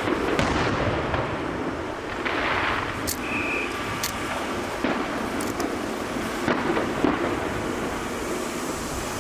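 Aerial fireworks show: a continuous rumble of bursting shells, with sharp cracks standing out several times.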